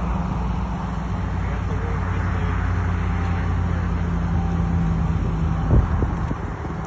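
Steady hum of a vehicle's idling engine under a wash of wind and road-type noise, with one thump about six seconds in.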